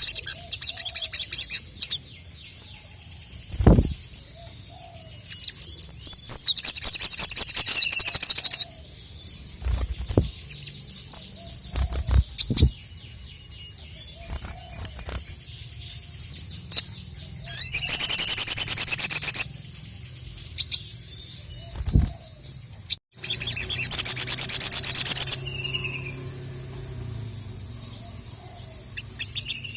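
Sogon (sogok ontong) songbird singing, three loud, rapid high trills of about two seconds each with short chirps between them. A few dull low thumps come in between the trills.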